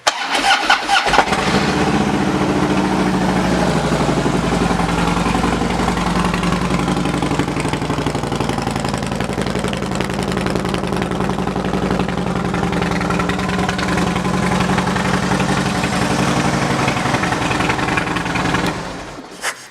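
2008 Harley-Davidson Road Glide's V-twin, fitted with a Thunderheader 2-into-1 exhaust, cranking on the starter, catching about a second in and idling steadily, then shut off near the end.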